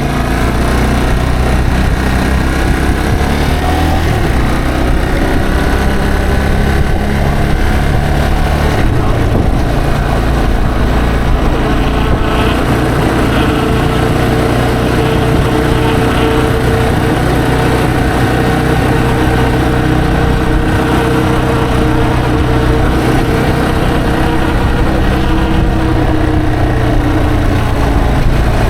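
Yamaha TW225's single-cylinder engine running steadily while the motorcycle is ridden, its pitch shifting a little with the throttle, over road and wind noise.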